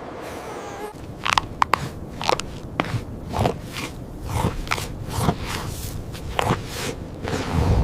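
Crunching footsteps in snow, irregular steps starting about a second in.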